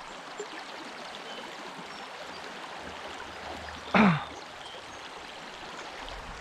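Creek water running steadily over rocks. About four seconds in, a short, loud sound falls quickly from high to low pitch.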